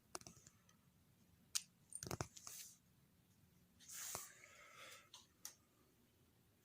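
Faint handling noises from working on e-bike wiring: a few separate sharp clicks and a short hiss about four seconds in, with near silence between them.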